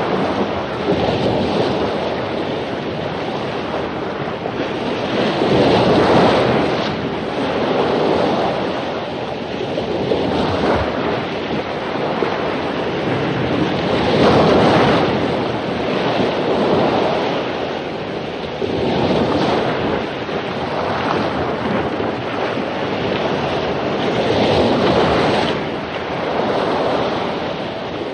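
Waves crashing on a beach after a storm: continuous surf that surges louder every few seconds as bigger waves break, then washes back down.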